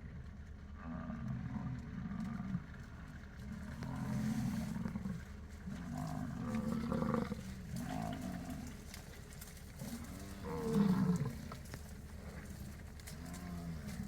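American bison bellowing: a string of low, growling roars one after another, about seven in all, the loudest about eleven seconds in, over a steady low rumble.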